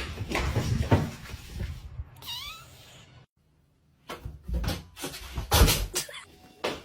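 A cat gives one short meow, followed after a brief break by several thumps and knocks.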